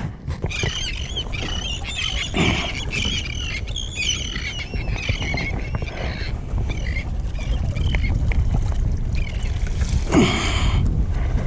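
Wind buffeting the microphone, over a run of wavering, squawking bird calls that last for about the first six seconds. A short, louder burst comes about ten seconds in.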